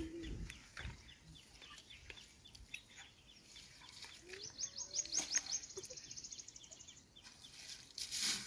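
Birds calling, with short high calls repeating throughout. A rapid high trill runs for a couple of seconds from about halfway through.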